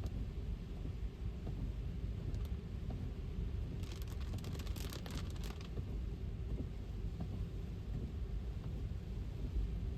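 Steady low rumble of an electric car's tyres and road noise on wet pavement in the rain. A short burst of crackling clicks comes about four seconds in and stops under two seconds later.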